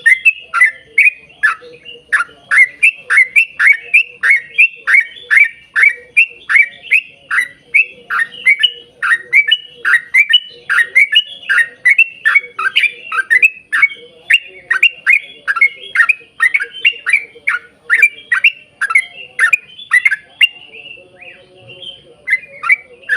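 Yellow-vented bulbul (trucukan) singing a long rapid roll of quick, downward-sweeping chirps, about three a second. It thins to a few scattered notes near the end.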